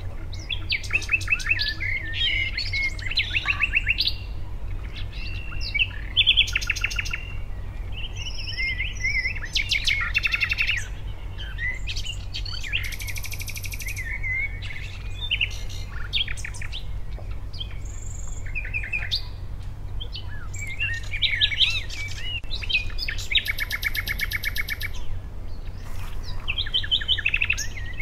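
Songbirds chirping and singing: short whistled notes, quick pitch glides and rapid trills, over a steady low hum.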